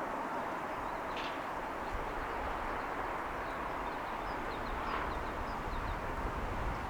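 Steady city ambience heard from above: a continuous hum of distant traffic over a low rumble. Faint short bird chirps come now and then, mostly in the middle few seconds.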